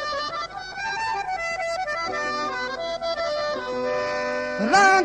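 Harmonium playing a sustained, stepping melodic passage in South Asian folk music, its reed notes held with rich overtones. Near the end a male singer's voice comes in loudly with a sliding note.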